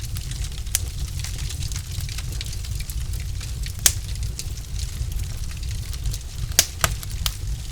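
Wood fire burning in a fireplace: a steady low rumble with sharp, irregular crackles and pops from the logs, the loudest about four seconds in and a cluster near the end.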